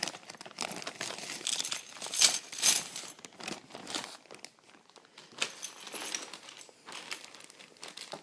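Crinkly plastic being handled and crumpled: a dense run of irregular crackles, loudest about two and a half seconds in.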